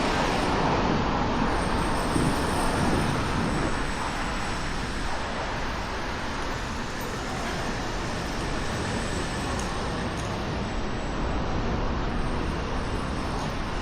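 Steady road traffic on a busy city street, vehicles passing. It is a little louder in the first few seconds, then eases to a steady level.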